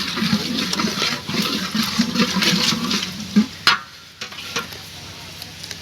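Chicken being stirred and fried in a pan, with scraping and sizzling. A little past halfway there are two sharp clanks, and then only a quieter sizzle remains.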